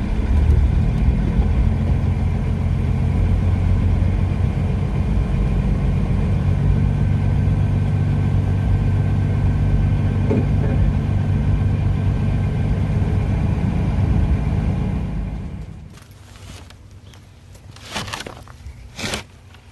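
Semi truck's diesel engine running steadily, heard from inside the cab. About fifteen seconds in it dies away, and a few sharp clacks follow near the end.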